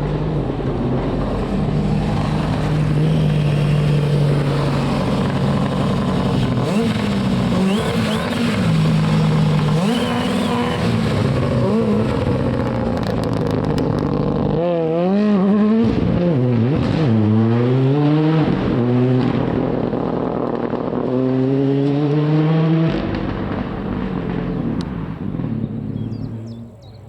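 Rally car engine running hard on a forest special stage, held steady at first, then revving down and up sharply several times through gear changes and braking. About four seconds from the end the revs cut off and the car's sound dies away.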